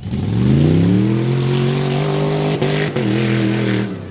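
A rock bouncer buggy's big engine revs up sharply, holds at high revs with a couple of brief stutters, and drops off near the end.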